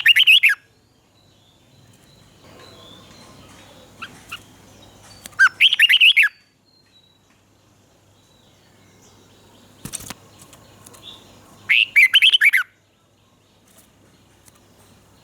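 Red-whiskered bulbul singing three short, loud phrases of rapid warbling notes about six seconds apart, with a few softer single notes between them. A single sharp click comes about two-thirds of the way through.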